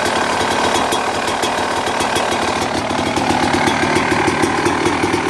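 1996 Yamaha YZ250's single-cylinder two-stroke engine running, with rapid, even firing pulses. The pitch rises slightly about three seconds in.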